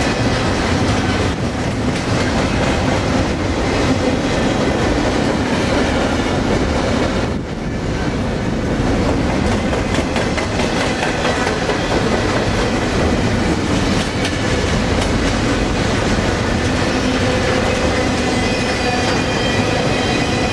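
Double-stack container train's freight cars rolling past: a continuous steady rumble of steel wheels on rail with clickety-clack, and faint thin squealing tones from the wheels. The sound dips briefly about seven seconds in.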